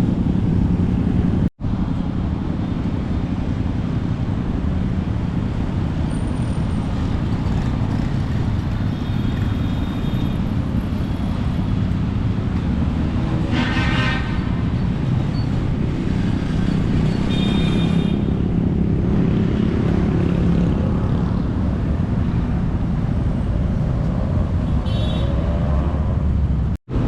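Steady road traffic rumble of passing vehicles, with a brief higher-pitched tone about halfway through.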